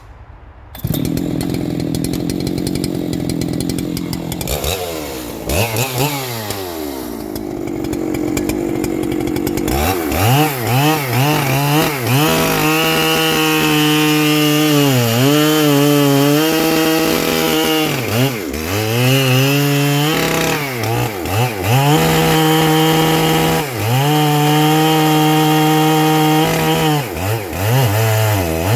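Ported Husqvarna 3120XP two-stroke chainsaw starting about a second in and running low, then revved up and down a few times. It then holds high revs while cutting wood, its note dipping briefly several times as the chain loads in the cut.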